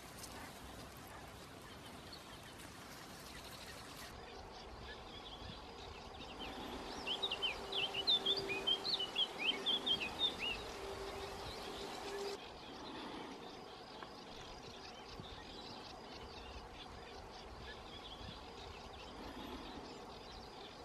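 Steady outdoor background noise. In the middle, a burst of rapid, high-pitched bird chirps lasts about four seconds, with a faint steady hum underneath.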